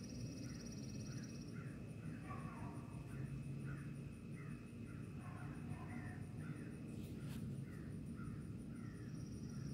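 A bird calling in short repeated notes, about two a second, over a low rumble. A high buzzing trill is heard at the start and again near the end.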